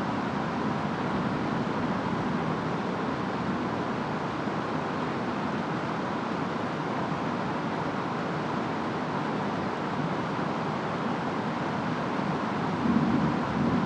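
Steady rainstorm ambience: an even wash of rain and wind noise, swelling slightly louder in the low range near the end.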